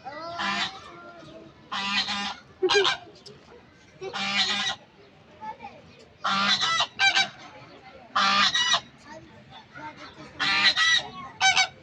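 Flamingos honking: a string of loud, goose-like honks, each under a second long, coming every second or two, some in quick pairs.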